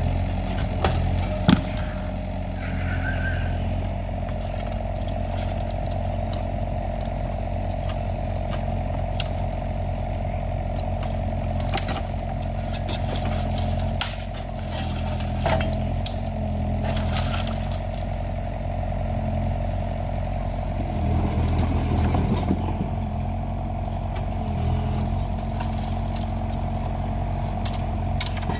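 Kubota excavator's engine running steadily, its note shifting slightly a few times, with scattered clicks and knocks.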